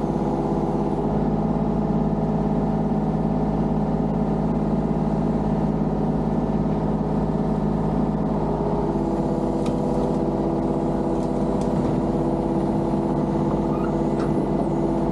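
Engine running at a steady speed, with a slight change in its tone about eight and a half seconds in.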